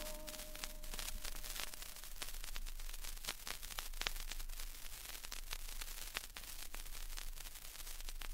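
Vinyl record surface noise in the quiet groove between tracks: a soft hiss with scattered crackles and pops.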